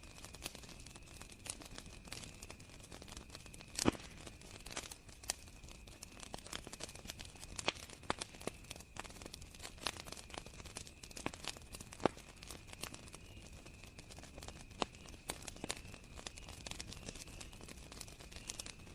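Wood fire crackling with irregular sharp pops, the loudest about four seconds in, over crickets trilling steadily at a high pitch.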